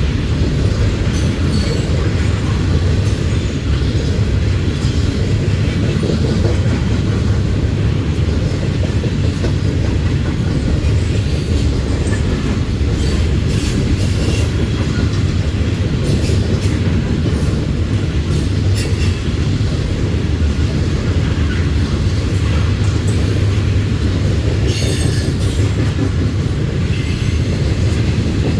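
Loaded coal gondolas of a freight train rolling past, a steady heavy rumble with wheels clacking over the rail and occasional sharp clicks and squeaks, a cluster of them near the end.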